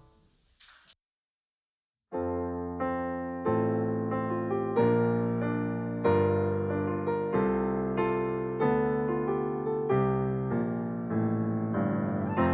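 After a moment of dead silence, a piano comes in about two seconds in, playing chords with a melody on top, each struck note ringing and fading, a new chord about every second and a quarter.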